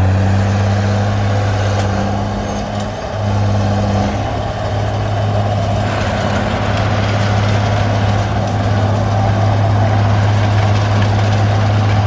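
Komatsu D20P bulldozer's diesel engine running steadily under work, with a deep, even hum. It dips briefly about three seconds in, and from about six seconds a rougher, wider noise joins it.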